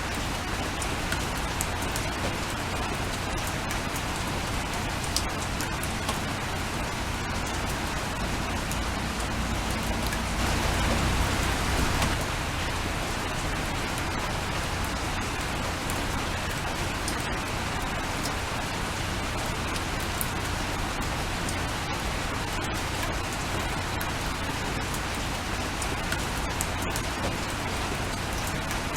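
Steady rain falling, with scattered individual drops ticking through it; the rain swells a little louder for a couple of seconds about ten seconds in.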